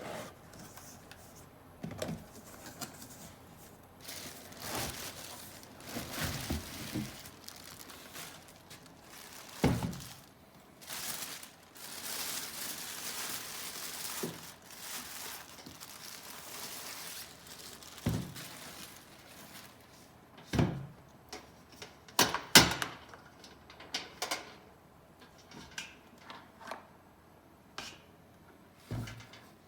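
Scattered thunks and knocks from objects being handled in a small room, a dozen or so spread out with the loudest about ten, twenty and twenty-two seconds in, between stretches of rustling noise.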